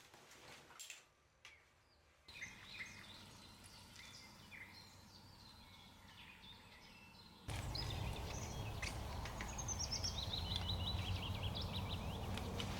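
Forest birdsong: small birds chirping and trilling, including a descending trill. About two-thirds of the way through, the background suddenly becomes louder, with a steady low rumble under the birds.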